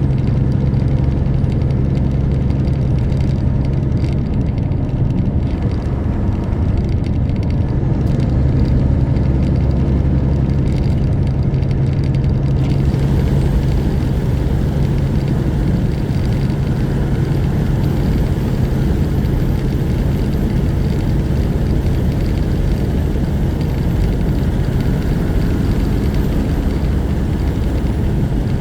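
Semi truck's diesel engine and road noise heard from inside the cab, a steady low drone with a constant hum. About twelve seconds in the hum fades back and a brighter hiss of road and wind noise takes over.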